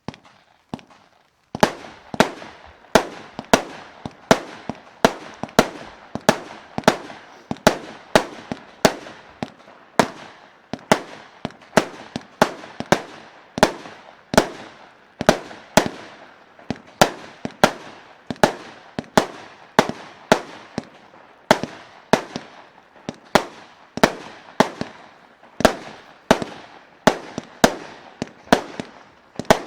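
Consumer firework battery (cake) firing shot after shot at a steady pace of about one and a half a second, each shot a sharp bang with a short fading tail.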